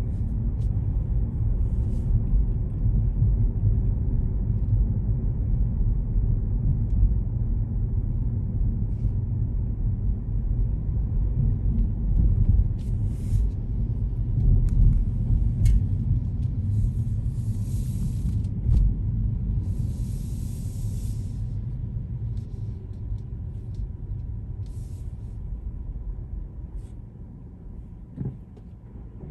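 A car driving through city streets, with a steady low rumble of engine and road noise. A few short hisses come around the middle, and the rumble gradually fades down near the end.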